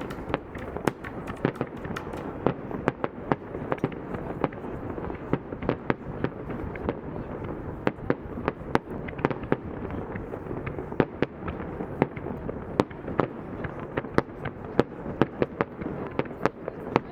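Fireworks display: a fast, irregular string of sharp bangs and cracks, several a second, over a continuous rumble of bursting shells.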